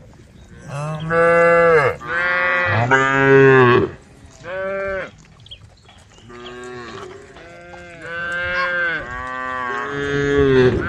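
A cow mooing over and over: a string of drawn-out moos, the two loudest in the first four seconds, a short one about five seconds in, then a run of softer moos to the end.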